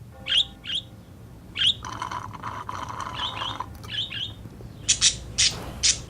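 Pet budgie chirping in short high calls, then giving a few sharp, loud squawks about five seconds in.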